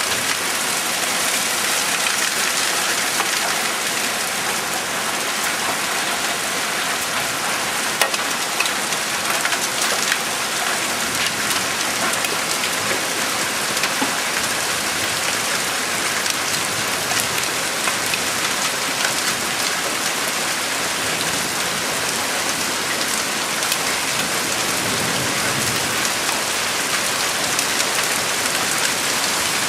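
Heavy rain falling steadily on surfaces: a dense, even hiss with an occasional sharper drop hit.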